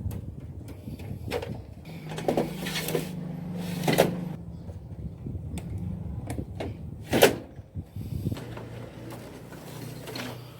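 Canon imageRUNNER copier being worked on: a series of sharp plastic clicks and knocks, the loudest about four and seven seconds in, over a low steady motor hum that runs in two stretches.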